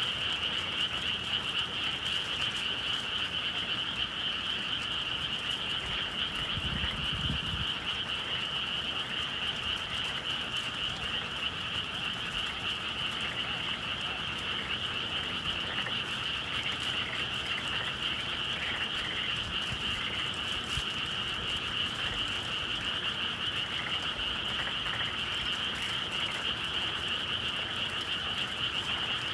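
Dense chorus of many frogs calling together in spring, a steady shrill trill that never lets up. A brief low rumble about seven seconds in.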